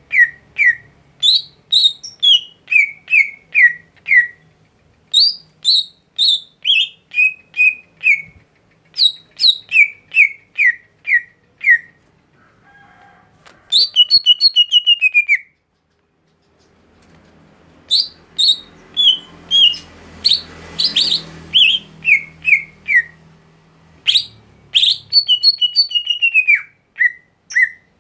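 A songbird singing runs of clear, downward-sliding whistled notes at about two a second, pausing between phrases, with a quick fast trill about halfway through.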